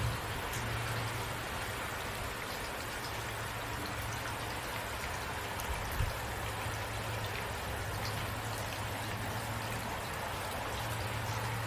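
Steady rain with scattered drops pattering, over a low steady hum; a single soft thump about six seconds in.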